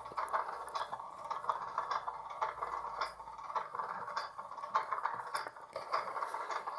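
Miniature LG Turbo Drum toy washing machine running its wash cycle: its small motor turns the drum with a steady whirr and many small rattling clicks.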